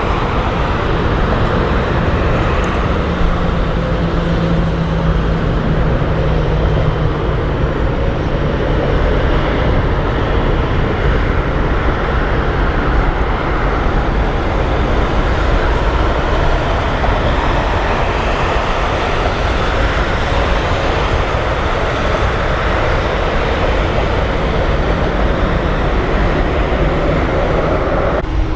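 Jet airliner engines running, a loud, steady rumble with faint slowly shifting tones through it. The sound changes abruptly near the end.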